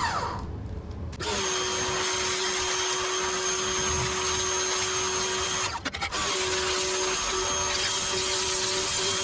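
Harbor Freight electric pressure washer running with the trigger held: a steady motor-and-pump whine over the hiss of the water jet. It starts about a second in, cuts out briefly near the middle when the trigger is let off, and starts again.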